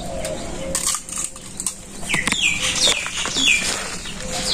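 A bird calling: a quick run of about five downward-sliding high notes in the second half, after a few sharp knocks about a second in.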